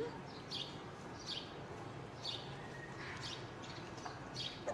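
A small bird chirping repeatedly, a short high call falling in pitch about once a second, over a faint steady low hum.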